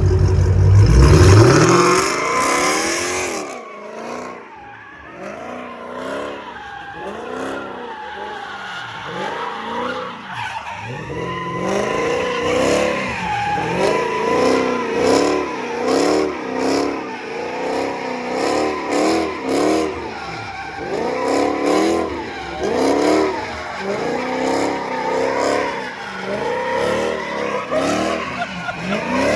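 A car's engine revs loudly at the start, then its tires squeal in a long run of rising and falling wails as it spins donuts.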